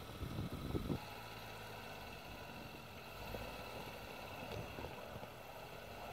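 Engine of a small off-road 4x4 running low and steady at a distance while the vehicle edges slowly forward. Wind buffets the microphone during the first second.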